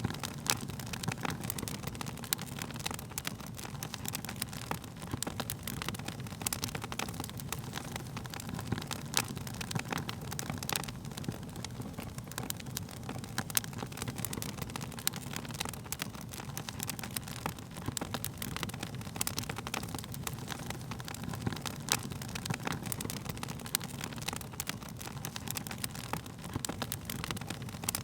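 Wood fire burning with a low steady rumble of flames and frequent sharp crackles and pops from the burning wood.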